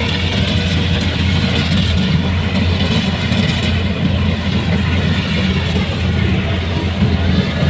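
Kubota rice combine harvester's diesel engine and machinery running steadily, with a constant low hum under a broad mechanical noise.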